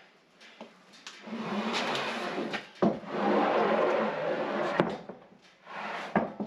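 Handling noise from opening and checking an engine air filter housing: rustling, with sharp snaps about three seconds in and near five seconds in, and a few more clicks near the end.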